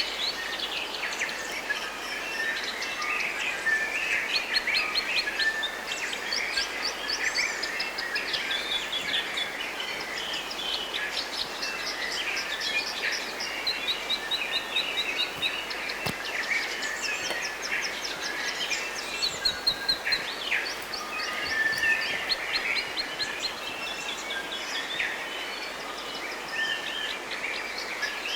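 Several birds chirping and singing together in a forest chorus, short calls and rapid trills overlapping throughout, over a steady background hiss.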